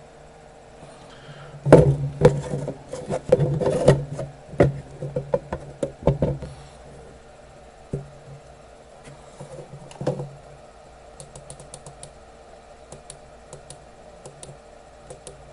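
Small clicks, taps and knocks of hand tools being handled on an electronics workbench during soldering work, busiest in the first half and sparse, lighter ticks later, over a steady low electrical hum.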